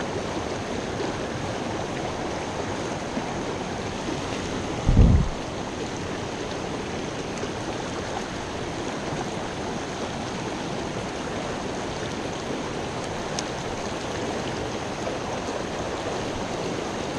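A small mountain creek with waterfalls rushing steadily, an even wash of water noise. A brief low thump about five seconds in.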